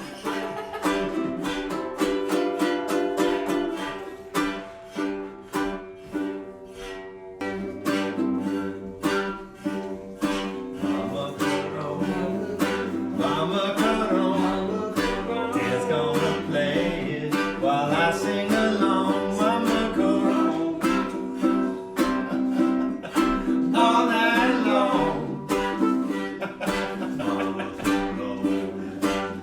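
Mamokhorong, the Basotho one-string fiddle, played in short, even rhythmic strokes on its steel string, cycling through a few repeating notes. About halfway in, a man's voice sings along with it.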